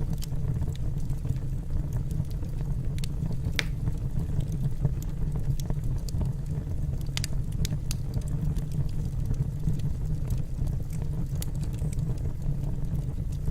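Wood fire burning in a fireplace: a steady low rumble of the flames with irregular sharp crackles and pops of the burning logs, a few louder ones scattered through.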